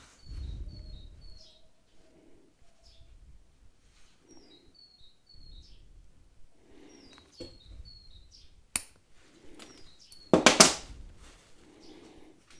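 A small bird chirping in short runs of about three high chirps, repeated several times, over soft handling sounds, with one louder harsh burst about ten seconds in.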